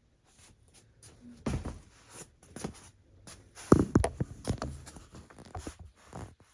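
Handling noises from work on a chainsaw's ignition wiring: an irregular run of light clicks, knocks and rustles, loudest about four seconds in.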